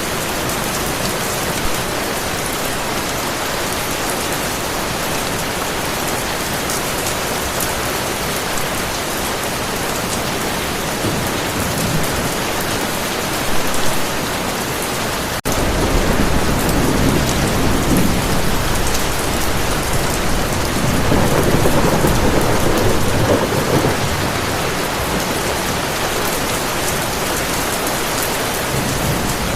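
Heavy rain falling steadily. Just past halfway a long roll of thunder rumbles in, swelling for several seconds before fading back under the rain.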